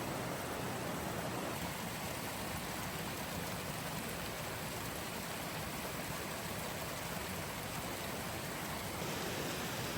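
Steady rush of flowing water, with slight shifts in its tone about a second and a half in and again near the end.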